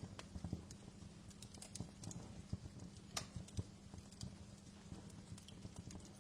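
Wood fire crackling: irregular small pops and snaps over a low rumble with a faint steady hum.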